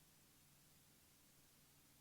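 Near silence: faint steady low hum and hiss, with no radio transmission.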